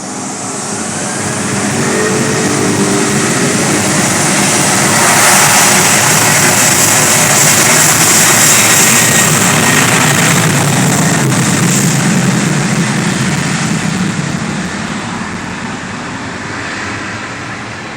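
Boeing 737-700's CFM56-7B turbofan engines at takeoff thrust as the jet passes: a loud roar that builds over the first few seconds, with a whine falling in pitch, peaks midway, then fades away over the last several seconds.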